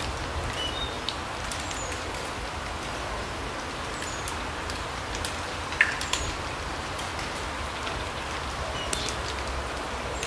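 Forest ambience: a steady hiss with a low rumble beneath it, scattered short high bird chirps, and occasional sharp ticks, the loudest a little before six seconds in.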